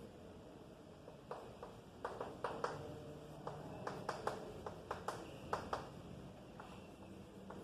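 Faint, irregular taps and light scratches of a pen writing out an equation, a couple of dozen short strokes spread over several seconds.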